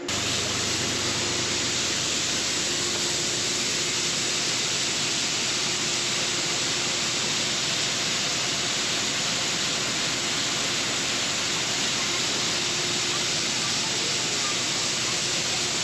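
Steady, loud hissing noise with a faint low hum beneath.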